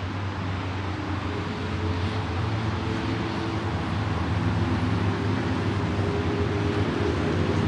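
A vehicle running steadily: a low engine hum under a wash of road and wind noise, slowly getting a little louder.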